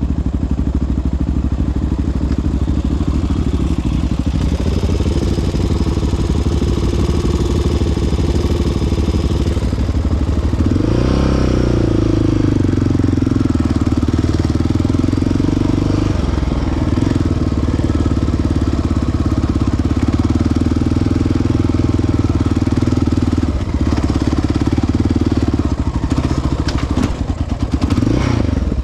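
Single-cylinder four-stroke sport quad engine running under way. It revs up about ten seconds in and then holds a steady pace, with brief let-offs and a few clattering knocks near the end.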